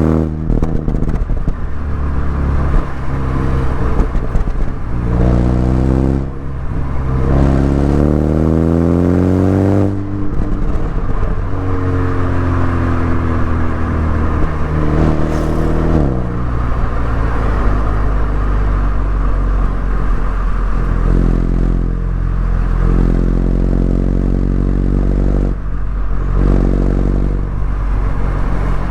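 Mini Cooper S four-cylinder engine and exhaust under way: revs climb in rising sweeps with breaks for gear changes in the first ten seconds, fall away as the car slows for a few seconds, then hold fairly steady with a few more shifts.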